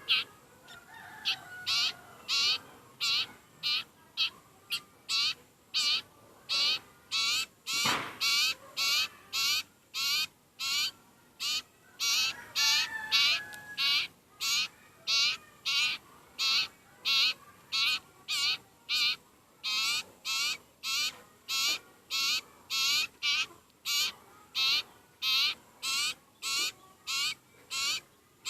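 A sirpu (sirtu) bird calling over and over: short, sharp, high-pitched calls at about one and a half a second, the insistent calling of a very hungry bird. About a third of the way through, a single knock.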